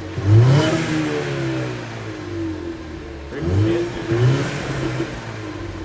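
S550 Ford Mustang EcoBoost, a turbocharged 2.3-litre four-cylinder on its stock exhaust, revved in short blips. The engine pitch rises and falls once near the start, then twice in quick succession about three and a half seconds in, and the engine runs steadily between the blips.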